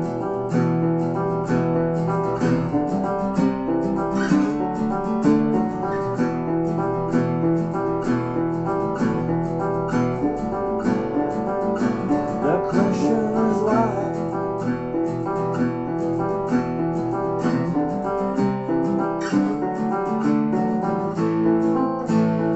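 Two acoustic guitars playing an instrumental passage of a song, strummed chords in a steady rhythm.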